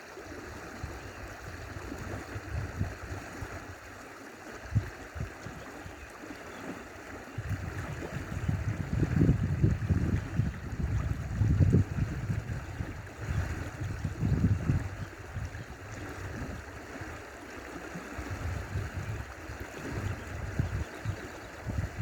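Stream water running steadily, with irregular bouts of low rumble that are strongest in the middle stretch.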